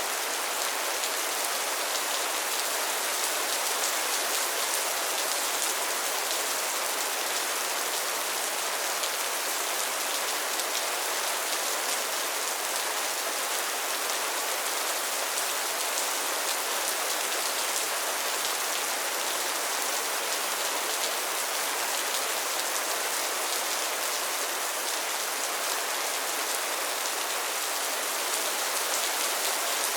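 Steady rain falling on a pond and its lily pads, a dense even patter of many drops hitting the water and leaves.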